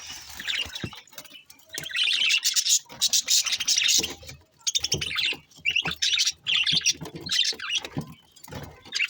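Budgie warbling and chattering in runs of about a second, broken by short pauses.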